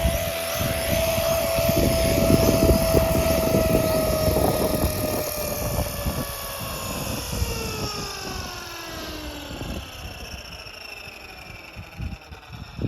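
Walkera DQ59 RC helicopter's brushless motors and rotors whining steadily, then falling in pitch and fading over the second half as they spool down, with gusty wind rumbling on the microphone.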